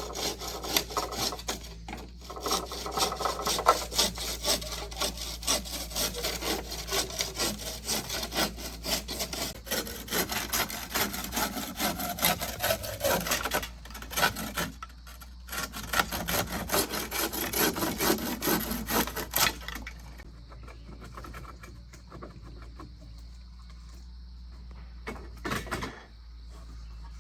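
Hand saw cutting through wood in quick back-and-forth strokes, pausing briefly about 14 seconds in and stopping about 20 seconds in, with one short burst of strokes near the end.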